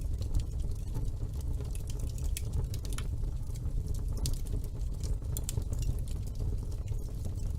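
Wood fire burning in a fireplace with a low steady rumble, broken by many small irregular crackles and pops.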